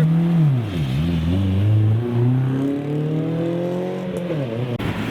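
A car engine accelerating hard away. Its pitch dips about a second in, then climbs steadily for several seconds, and falls sharply near the end as the next gear is taken.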